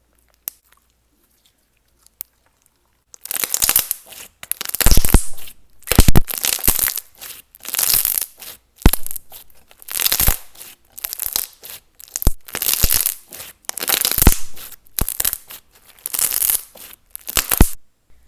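Clear slime with mini jelly cubes being squished and worked by hand, giving crackly, crunchy squelches in repeated bursts about once a second, starting about three seconds in.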